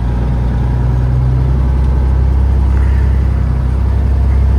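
Peterbilt 379 semi truck's diesel engine running at low speed: a steady, loud low drone.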